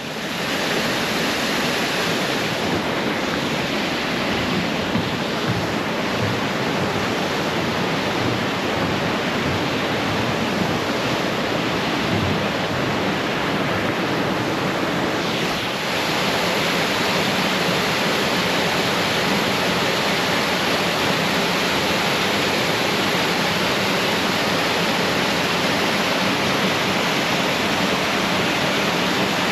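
Waterfall: water pouring over the falls in a steady, full rushing roar, with a slight drop and shift in tone about halfway through.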